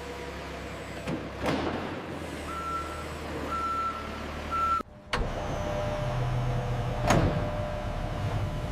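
Truck engine running with a reversing alarm beeping three times in the middle, followed by a steadier, louder engine rumble.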